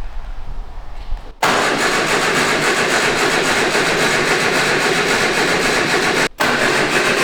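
The 1953 MG TD's four-cylinder engine being cranked on the starter and trying to fire after three or four months standing, coming on loud with a fast, even pulse. It is broken by abrupt cuts about a second and a half in and near the end.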